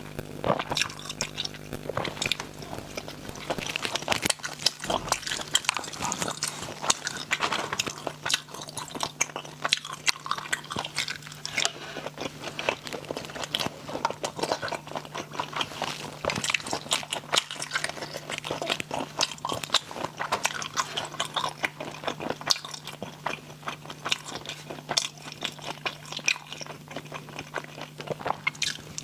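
Close-miked eating of spicy snails: continuous irregular chewing, biting and smacking mouth sounds, over a steady low hum.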